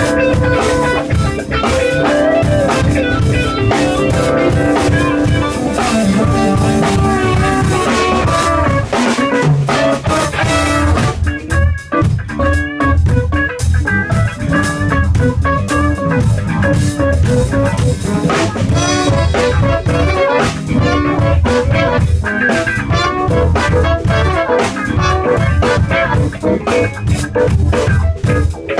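A live band playing a jazzy number at full volume, with drum kit and guitar carrying it.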